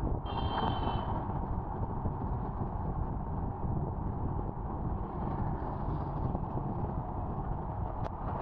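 Steady wind and road rumble from riding a scooter, with a brief high-pitched tone lasting about a second near the start and a single sharp tick near the end.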